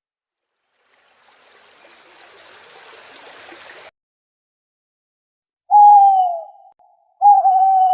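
A faint rushing, water-like noise for a couple of seconds that stops abruptly. Near the end, two loud honks from a goose, each falling a little in pitch.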